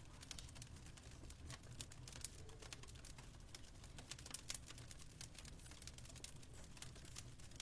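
Fire crackling in a fireplace: irregular sharp pops and snaps, several a second, over a low steady rumble.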